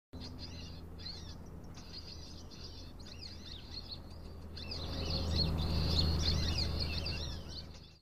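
Small birds chirping, many quick high overlapping calls, with a low rumble that swells from about halfway through; everything fades out just before the end.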